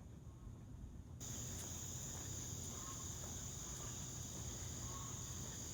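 Insects trilling steadily in a high, unbroken band, much louder from about a second in, over a low rumble.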